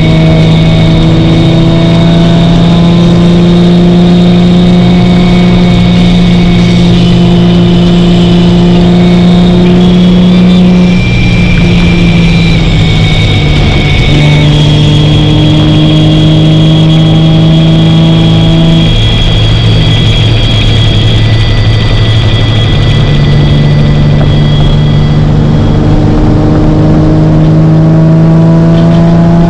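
Nissan 350Z's 3.5-litre V6 running under light acceleration. Its note climbs slowly in pitch and drops at gear changes, about a third of the way in and again past the middle, then climbs again.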